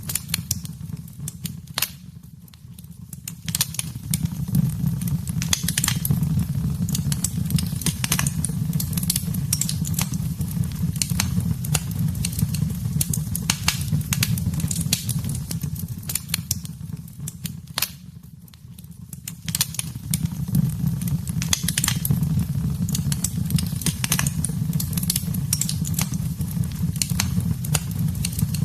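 Wood fire burning in a fireplace: irregular sharp crackles and pops over a steady low rumble of the flames. It goes briefly quieter twice, about two seconds in and again about eighteen seconds in.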